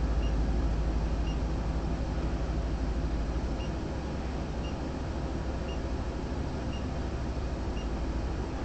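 Police car's cabin with the engine idling: a steady low rumble with some hiss. A faint short high beep repeats about once a second.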